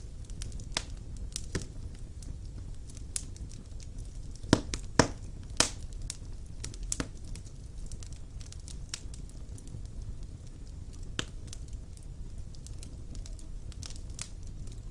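Fire crackling in a stone fireplace: a steady low rumble of flame with scattered sharp pops, the loudest few coming about four to six seconds in.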